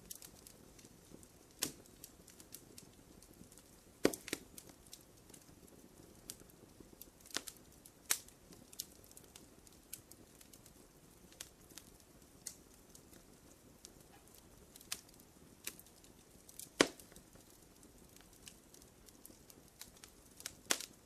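Wood campfire crackling: irregular small snaps and ticks over a soft low hiss, with a few sharper, louder pops scattered through.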